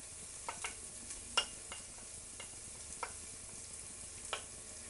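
Crushed garlic and chilli seeds frying in cooking oil in a pan, a steady sizzle with a few sharp clicks scattered through it.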